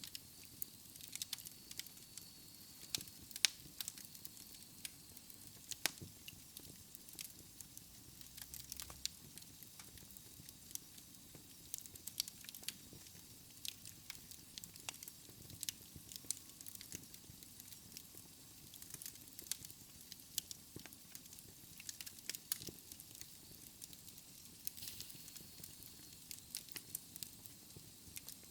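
Wood fire crackling in a fireplace: irregular pops and snaps of burning logs over a soft hiss.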